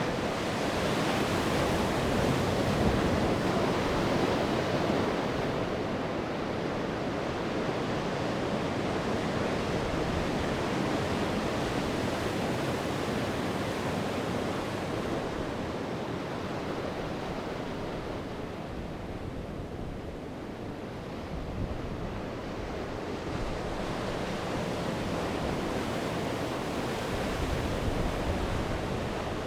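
Sea waves breaking and washing on the shore in a steady surf, swelling and easing slowly, with some wind on the microphone.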